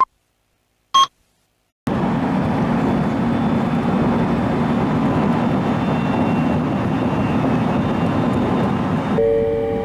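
A short beep about a second in. Then a train runs along the track with a steady rumble, and the sound changes near the end.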